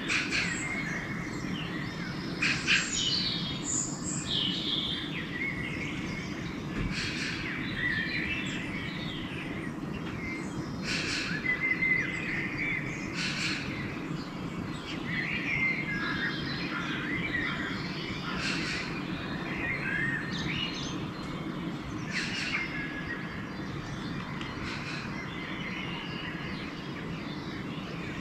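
Pre-dawn chorus of several songbirds: many overlapping chirps, trills and short calls throughout. A steady low background rumble runs beneath them.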